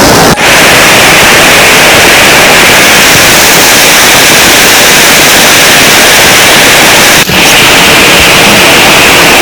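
Heavy rain falling: a loud, steady hiss, cut by two brief dropouts, one near the start and one about seven seconds in.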